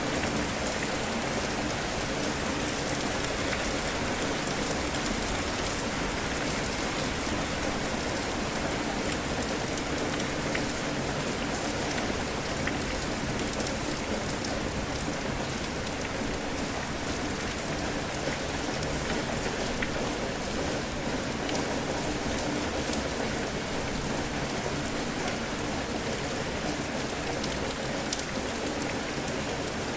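Steady rainfall on a surface, a dense even hiss with scattered individual drop patters.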